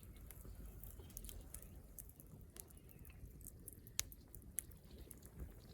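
Wood campfire crackling: irregular small pops and snaps, with one sharper snap about four seconds in.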